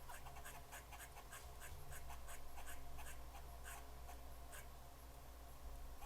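Quick irregular clicks and scratches on a bird feeder, a few each second: birds pecking at seed. A low steady hum runs underneath.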